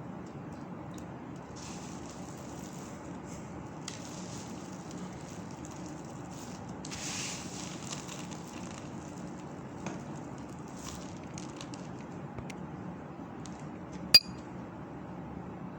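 Dry soap balls being crushed: soft crunching and crackling at intervals over a steady background hiss, with one sharp clink about fourteen seconds in.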